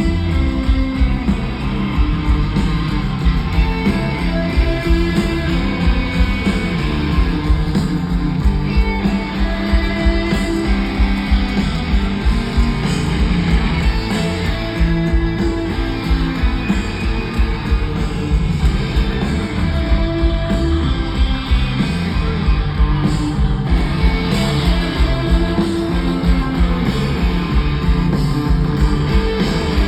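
Live rock band playing loudly and steadily through a concert sound system: electric guitars over bass and drums in an instrumental stretch without vocals.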